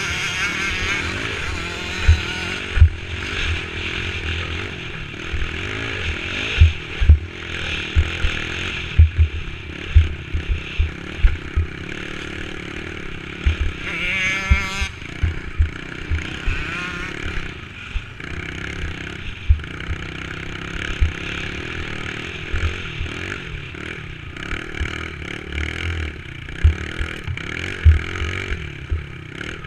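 Dirt bike engine running under way as the bike rides a trail, its pitch rising and falling with the throttle, with a quick warbling rev about halfway through. Frequent short low thumps and some clatter run under it.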